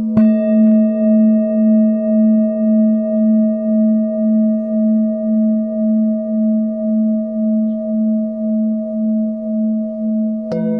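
Singing bowls ringing. One bowl is struck just after the start and rings on with a low hum and higher overtones that wobble in a slow, steady pulse. Near the end a second, lower-pitched bowl is struck and joins it.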